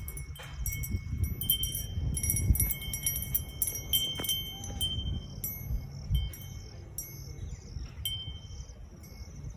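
Chimes tinkling: thin high ringing notes struck irregularly and overlapping, over a low rumble.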